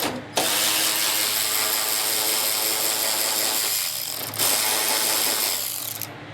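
Power ratchet spinning out a 10 mm fender bolt. It runs for about four seconds, pauses briefly, then runs again for about a second and a half before stopping.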